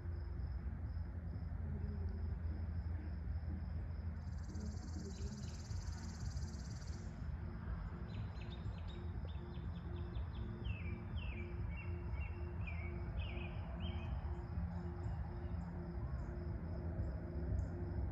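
Outdoor ambience of insects chirping in a steady pulsing rhythm over a low hum. A buzz comes in for a few seconds near the start, and a run of short falling chirps follows in the middle.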